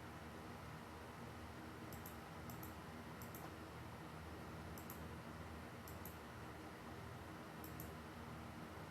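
Computer mouse clicking now and then: about six faint, sharp clicks, each a quick pair, at uneven intervals over a steady low room hum.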